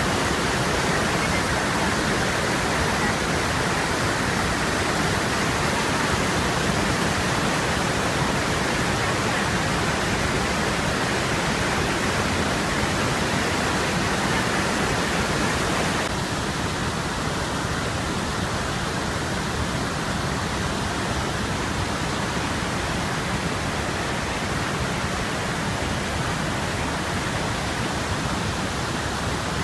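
Waterfall, a steady rush of falling water. About halfway through it turns slightly quieter and duller.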